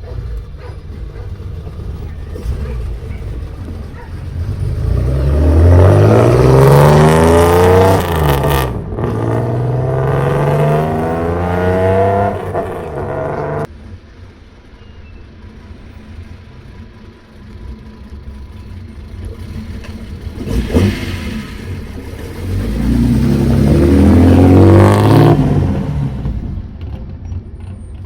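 Loud exhaust of a Hakosuka Nissan Skyline revving hard. The revs climb, break off for a moment, then climb again and cut off suddenly. After a low steady stretch with a couple of short blips, the revs rise and fall once more near the end.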